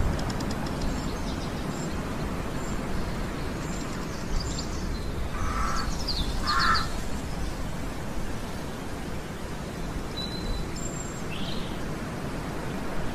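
A bird calls twice in the middle, two short calls a little over a second apart, while small birds chirp faintly and high. Steady low outdoor background noise runs underneath.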